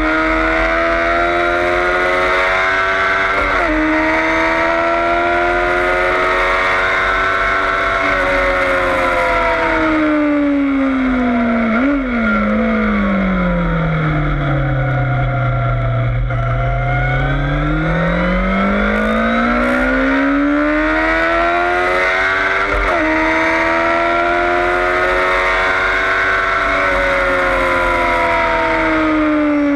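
Yamaha FZS600 Fazer's inline-four engine pulling hard on track. The pitch climbs and falls with short flicks at the gear changes, drops to a low note through a slow corner around the middle, then climbs again. A steady low rush of wind runs underneath.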